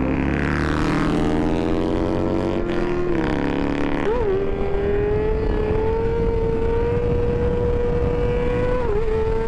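Motorcycle engine under way: revs climb for about three seconds, drop with a gear change, then hold steady at a cruising speed.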